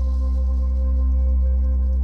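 Ambient meditation drone music: a deep, steady low hum with several sustained, slowly wavering tones held above it.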